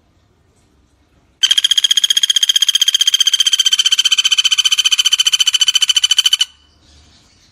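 Pelatuk bawang woodpecker singing one fast, even, rattling trill of about five seconds, starting about a second and a half in and cutting off sharply.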